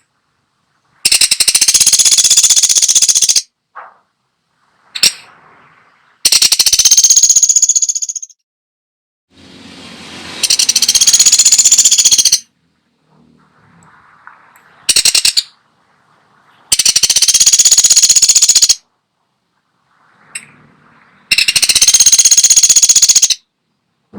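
Woodpecker giving loud, fast rattling trill calls, each about two seconds long, repeated six times with short gaps; one call near the middle is much shorter. A few faint clicks fall between the calls.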